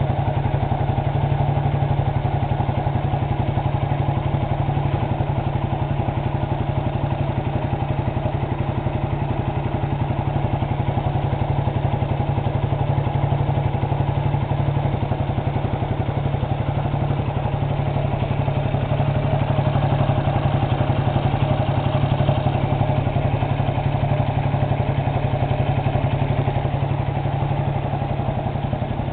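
Honda FTR223's air-cooled single-cylinder four-stroke engine idling steadily through an aftermarket RSV exhaust muffler.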